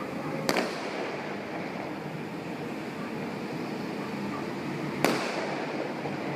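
Two sharp firework bangs, one about half a second in and another about five seconds in, over a steady background din.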